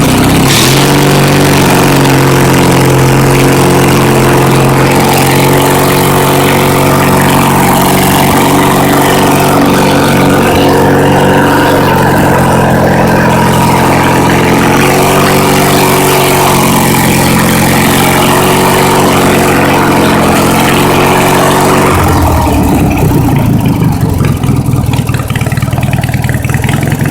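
Small garden tractor engine throttled up as it pulls away in gear, running steadily at higher revs for about twenty seconds, then dropping back to a lower idle near the end.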